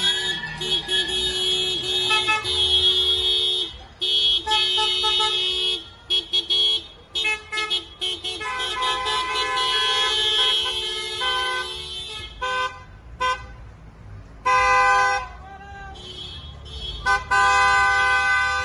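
Car horns honking in celebration: long held blasts in the first half, then a run of shorter toots with gaps in the second half.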